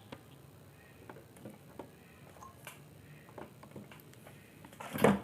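Scattered light clicks and taps of hand tools on a circuit board while a replacement electrolytic capacitor is being fitted, with one louder clatter near the end.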